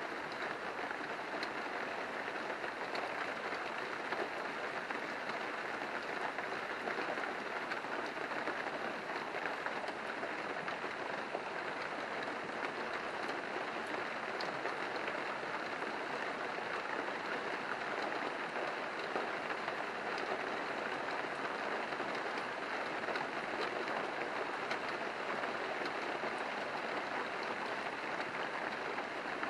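Steady rain falling, an even hiss of drops with scattered sharper drop ticks through it.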